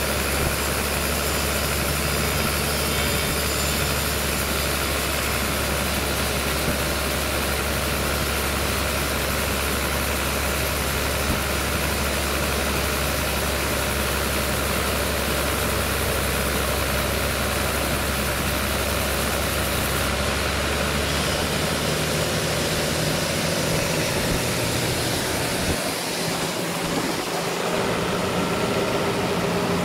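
A sawmill's engine running steadily. About two-thirds of the way through, its low hum drops away and the sound changes.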